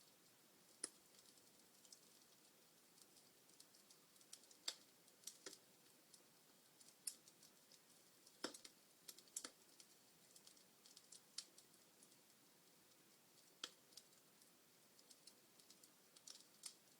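Wood fire in a fireplace crackling: irregular sharp snaps and pops, a few much louder than the rest, over a faint hiss.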